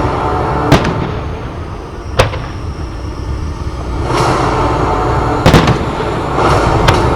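Aerial firework shells bursting in a pyromusical display: sharp single bangs about a second in and a second later, then a quick pair near the end, over a continuous bed of music and rumbling bursts.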